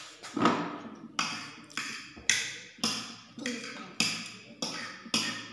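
A person chewing a mouthful of noodles, a regular smack about twice a second.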